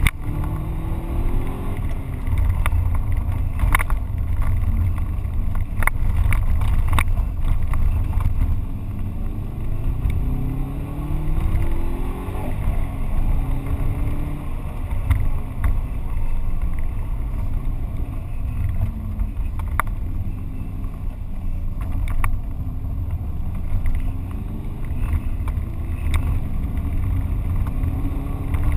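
Subaru Impreza GT's turbocharged flat-four engine heard from inside the car under hard acceleration, its pitch climbing and dropping again several times as it is driven through the gears, over a heavy low road rumble. Sharp ticks of gravel striking the car come now and then, mostly in the first third and again about two-thirds through.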